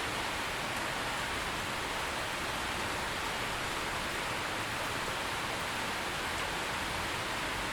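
Steady rainfall, a dense even hiss that neither builds nor fades.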